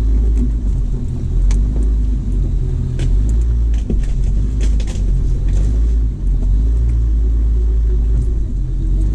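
Jeep Wrangler TJ running at low speed over a rough forest track: a steady low engine rumble with scattered knocks and rattles.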